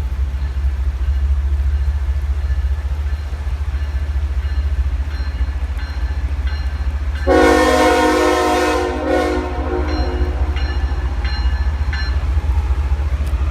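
Train horn sounding one long blast of about three seconds, starting about seven seconds in, over a steady low rumble from the train.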